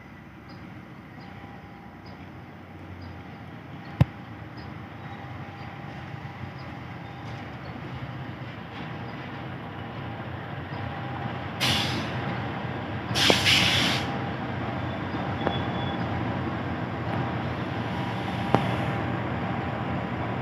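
A train approaching along the line, its rumble growing steadily louder, with two short, loud hissing blasts around the middle and a couple of sharp clicks.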